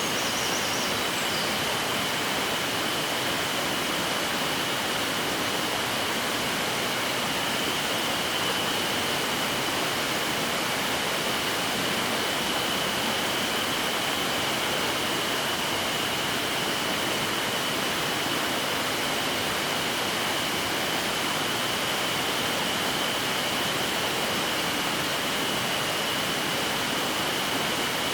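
Mountain headwater stream rushing steadily, with a thin, steady high-pitched tone held over it throughout.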